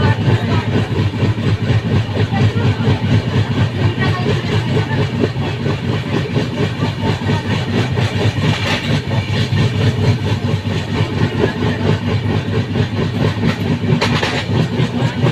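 Train running along the tracks: a steady, loud rumble of wheels on rail. Two brief higher-pitched noises come about nine and fourteen seconds in.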